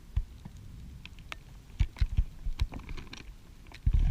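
Irregular light clicks and taps with a few low knocks, the loudest near the end: handling noise from gear being fiddled with on a paddleboard.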